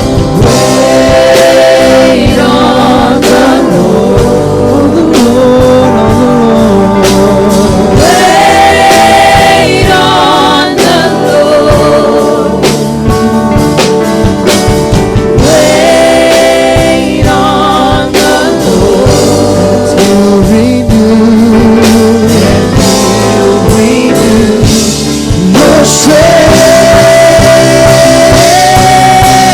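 Gospel worship music with singers and a band, the voices holding long notes with vibrato and sliding between them.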